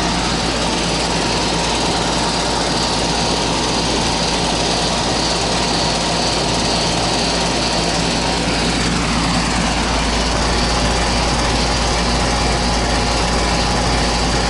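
Goodman air-conditioning condensing unit running steadily: the compressor's even hum under the rushing of the condenser fan.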